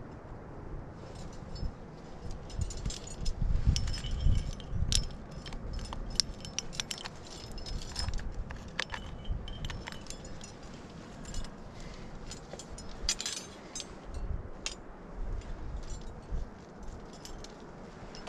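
Metal climbing gear, carabiners and hardware on a harness or rack, clinking and jangling in irregular bursts as the climber moves, with wind rumbling on the microphone.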